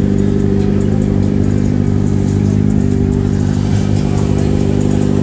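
Car engine idling at a steady, unchanging pitch, a constant deep drone.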